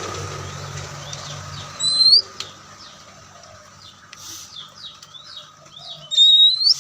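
Oriental magpie-robin singing: a loud rising whistle about two seconds in and another near the end, with soft, quick chattering notes between them. A steady low hum fades out over the first two seconds.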